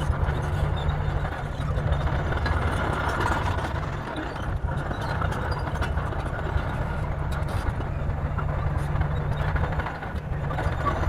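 Bulldozer's diesel engine running steadily, easing off briefly about four and a half seconds in and again near the end.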